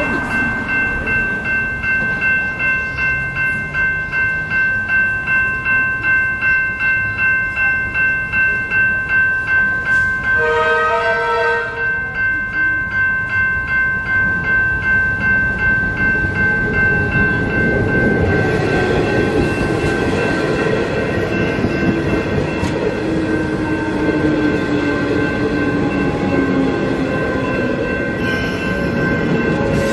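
Level-crossing warning bells ringing at about two strokes a second while the boom gates are down. About ten seconds in, a short horn blast sounds from an approaching Melbourne Metro electric suburban train. From about eighteen seconds the train's wheels and motors grow into a loud rumble with a slowly falling whine as it runs across the crossing near the end.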